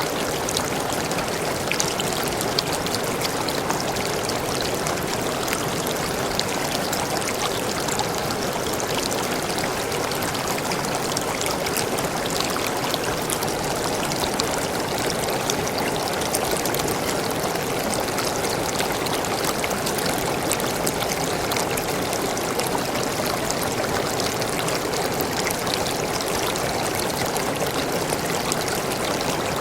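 Waterfall pouring into a forest stream: a steady, unbroken rush of falling water with fine splashing.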